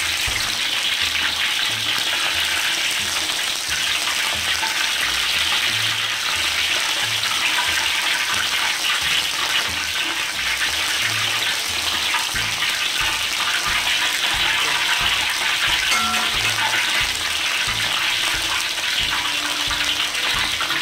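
Flour-coated chicken pieces deep-frying in a wok of hot oil: a steady, dense sizzle with fine crackling.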